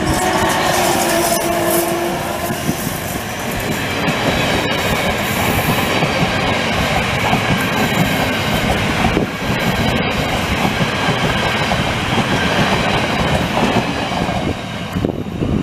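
MÁV class 480 (Bombardier TRAXX) electric locomotive and a long train of passenger coaches passing close by, with a loud, steady noise of wheels running on the rails. A hum from the locomotive is heard in the first couple of seconds as it goes past. The noise eases off near the end as the last coaches pass.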